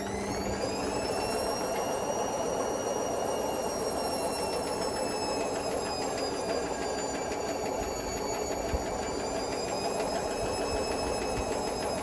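Hotpoint Smart Tech washing machine spinning a load of bricks in its final spin. The motor whine finishes rising and levels off at speed about a second in, sags slightly and recovers later, over a steady rumble from the drum.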